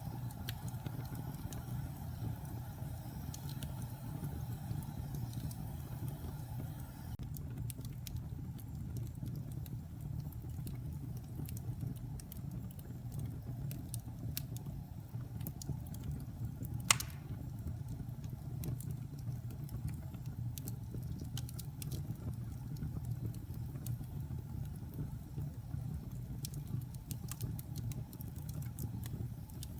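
Wood fire burning in a fireplace: a steady low roar of flames with scattered small crackles, and one sharp pop about halfway through.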